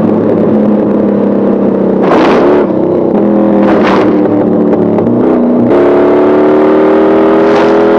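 V8 car engine at high revs, its pitch stepping between gears a few times and then climbing steadily as it accelerates near the end, with short harsh bursts about two and four seconds in.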